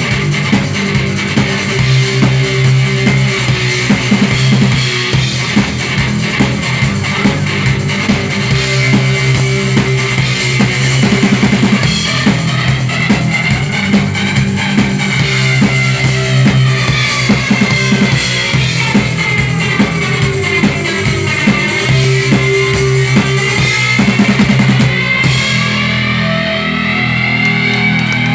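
Rock band playing an instrumental passage with drum kit, bass and guitar, no singing. A high line glides up and down in pitch through the middle. About three seconds before the end the highest sounds drop away and the music moves into a new section.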